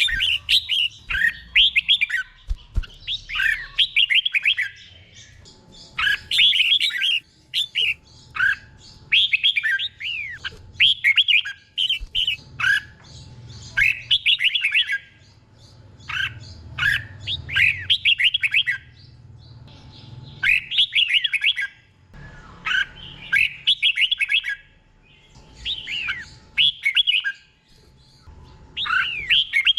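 Red-whiskered bulbul singing: short, quick warbled phrases given in clusters, with brief pauses between them.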